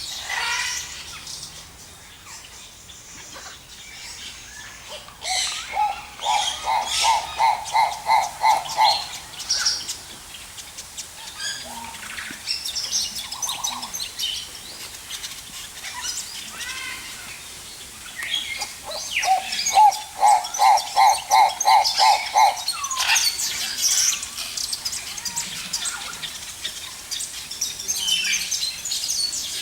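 Several aviary birds chirping and calling together, with short high twitters throughout. Twice, a bird gives a run of about nine quick, evenly repeated mid-pitched notes, the loudest calls in the mix.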